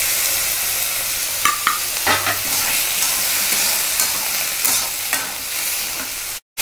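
Cubed potatoes sizzling in hot oil in an iron kadai while a steel spatula stirs them, scraping against the pan a few times. The sound cuts out for a moment near the end.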